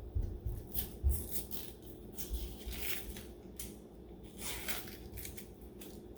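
Knife cutting an onion on a cutting board: irregular light taps and crunches.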